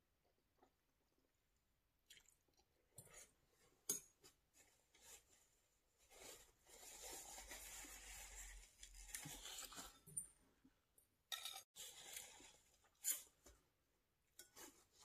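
Faint eating sounds: chewing and mouth noises with a few sharp clicks, and a longer stretch of steady noise lasting about three seconds in the middle.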